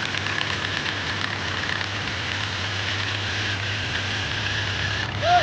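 Tractor engine running steadily under a noisy, crackling hiss. A short rising-and-falling tone near the end is the loudest moment.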